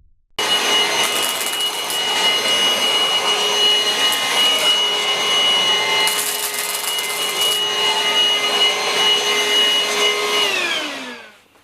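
Cordless stick vacuum cleaner running at a steady high-pitched whine. It is switched off about ten and a half seconds in, and its pitch falls as the motor winds down to a stop.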